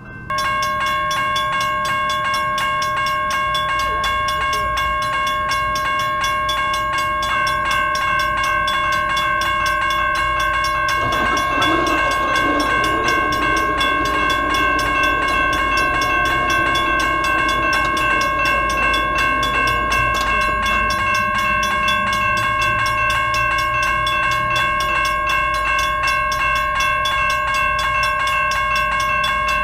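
Freight train with a GE ES44AC diesel-electric locomotive running by. A steady high ringing tone and a rumble sound throughout, and a louder, wavering rumble comes in from about eleven seconds to twenty.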